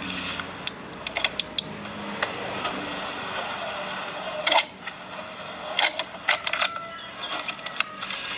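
Flaring tool being worked on copper refrigerant pipe: scattered metal clicks and taps, with one louder clank about halfway through, over a steady low hum.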